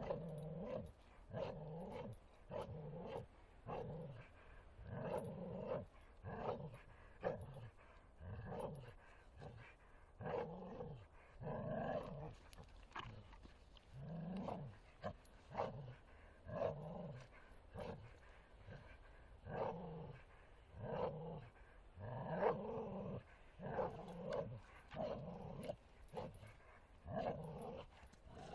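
Bull terrier growling in play, a long series of short rough growls, about one or two a second.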